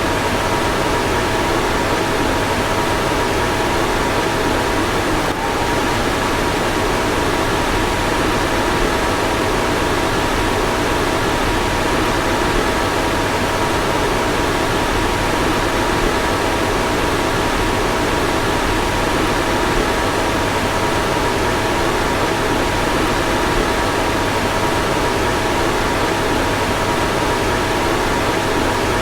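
Car fan running steadily: an even rush of blown air with a faint constant hum of a few tones in it, and a slight momentary hiccup about five seconds in.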